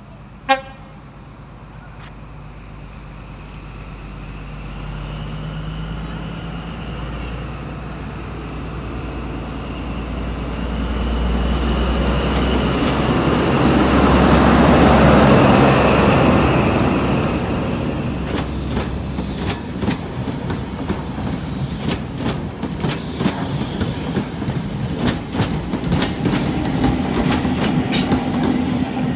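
A High Speed Train with Class 43 diesel power cars at each end passing close by. A sharp click comes half a second in. Then the leading power car's engine grows louder to its peak about halfway through as it goes by, followed by the coaches rolling past with a rhythmic clatter of wheels over rail joints, with the rear power car passing near the end.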